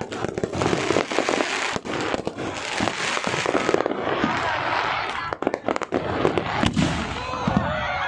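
Aerial fireworks display going off: a rapid, continuous run of bangs and pops over dense crackling.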